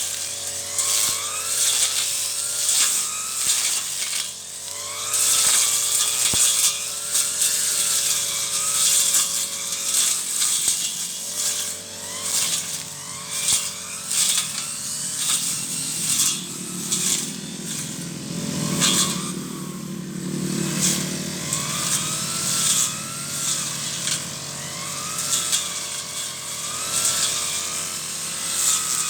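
Brush cutter engine running under load, its pitch rising and falling again and again as the cutting head slashes through weeds, with many short hits from the cutting.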